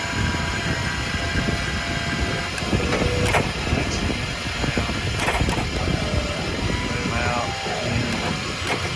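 Service-truck crane being worked: a steady motor whine over a constant low rumble, with several sharp clicks and knocks.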